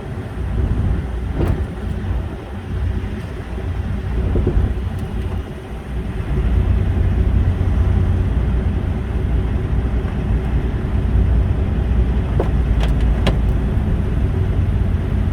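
Diesel semi-truck engine running with a heavy, deep rumble that grows louder about six seconds in, as a truck works to move a trailer in snow. A few sharp clicks or knocks sound over it, one early and a cluster near the end.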